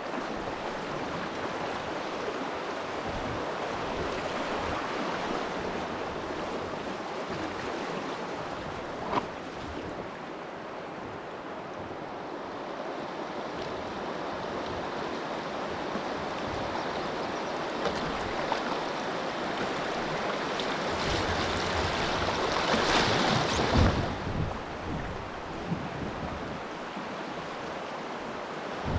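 Steady rushing of river water, with wind buffeting the microphone; a stronger gust of wind noise swells about 21 seconds in and drops away about 24 seconds in.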